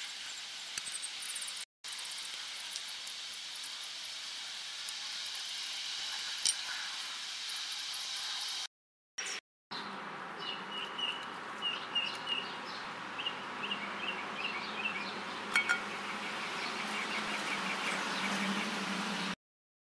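Steady outdoor background noise with a bird chirping in quick runs of short high notes through the middle of the stretch. The sound cuts out completely three times for a moment, where the playback skips ahead.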